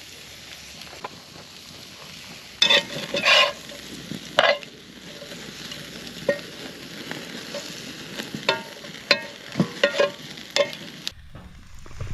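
Food sizzling in a pan over a campfire, with a metal utensil scraping and clinking against the cookware about eight times, the loudest strokes clustered about three seconds in. The sound changes abruptly about a second before the end.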